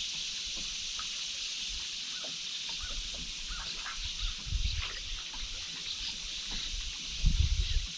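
Steady rush of river water around a canoe, with small splashes and drips scattered through, and low thumps about halfway and again near the end.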